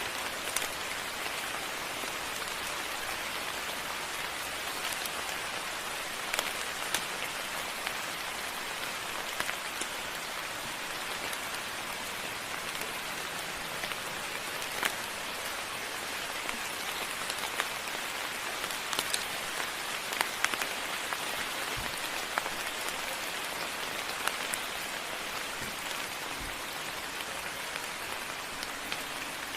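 Moderate rain falling steadily, with scattered individual drops landing with sharp ticks close by.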